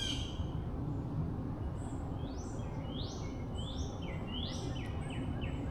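A songbird singing: about five rising whistled notes, roughly a second apart, start about two seconds in. Near the end they give way to a quick run of short falling notes. Under it is a steady low background hum of outdoor noise.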